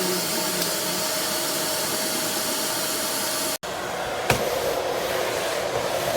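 Miele Classic C1 canister vacuum cleaner's motor running steadily with a rush of air and a faint whine. The sound drops out for an instant about three and a half seconds in and comes back with a slightly different tone, with a single click soon after.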